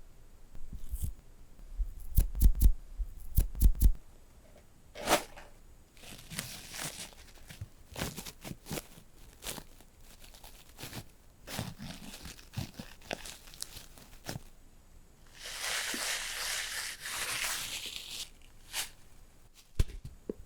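Close-miked ASMR object triggers with no talking. A quick run of sharp taps and clicks with dull thumps comes first, then scattered clicks and short scratchy rustles, and about three-quarters of the way in a steady scratchy rustle lasting two to three seconds.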